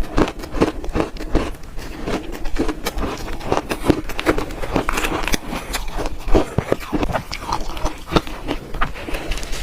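Close-miked crunching of shaved ice being bitten and chewed: a dense, uneven run of sharp crackles and crunches, several a second.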